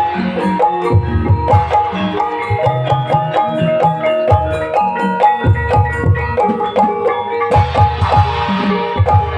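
Ebeg accompaniment music: tuned struck bars play a repeating melody over clusters of low hand-drum strokes, with a brighter splash of higher sound about eight seconds in.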